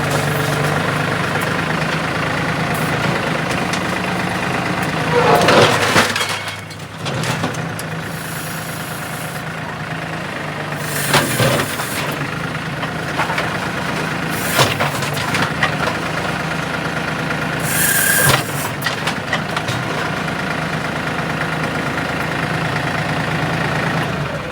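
Heavy machine engine running steadily with a low drone while carrying a load in its bucket, with loud crashes and clatters of impacts about five, eleven, fourteen and eighteen seconds in.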